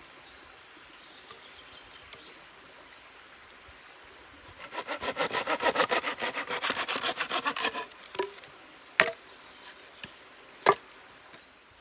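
Hand saw cutting through wood in quick back-and-forth strokes for about three seconds, starting partway in. Two sharp knocks follow, a second or so apart.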